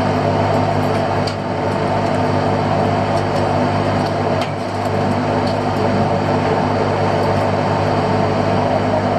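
A fishing boat's engine running steadily, a constant even hum with a few faint clicks over it.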